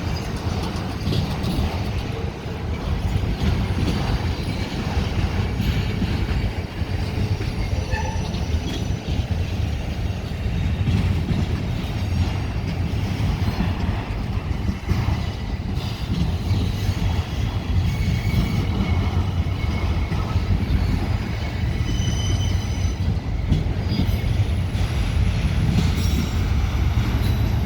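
Freight train cars rolling past, a steady low rumble of wheels on rail with short high-pitched wheel squeals coming and going and occasional clicks from the rail joints.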